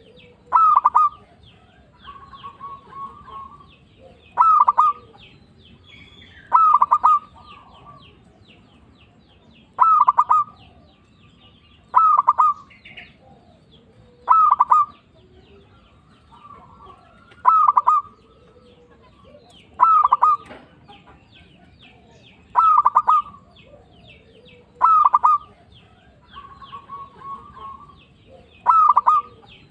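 Zebra dove (perkutut) cooing: a short, rapid, stuttering cooing phrase repeated about every two to three seconds, eleven loud phrases in all. Softer cooing comes between some of them, and faint high chirps of small birds run underneath.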